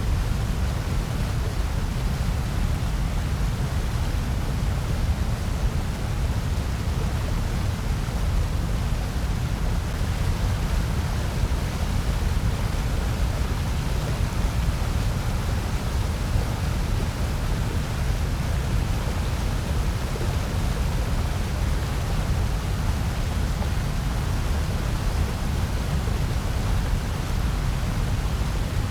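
Steady, unchanging synthetic noise of the kind sold as white noise for sleep and focus, heaviest in a deep low rumble with a softer even hiss above it.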